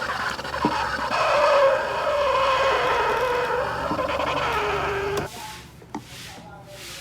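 Steam wand of a small 3.5 bar steam espresso machine frothing milk: a loud hissing screech with a wavering squeal that slowly drops in pitch, cutting off about five seconds in. A few soft hissing whooshes follow.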